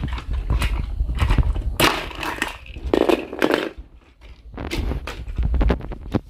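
Plastic motorised toy trains and track clattering and knocking, irregular bumps over a steady low rumble.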